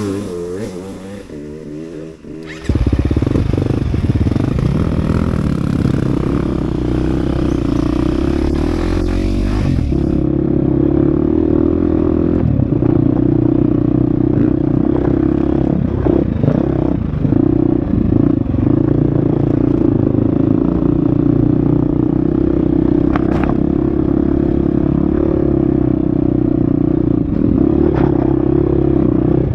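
Husqvarna FX 350 dirt bike's single-cylinder four-stroke engine, running quietly at first and then pulling away under throttle about three seconds in. The engine note then rises and drops with the throttle and gear changes while riding a trail, with a few sharp knocks.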